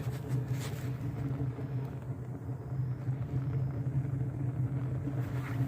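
Homemade rocket stove burning wood pellets, its draft giving a steady low rumbling hum, with a few faint crackles in the first second.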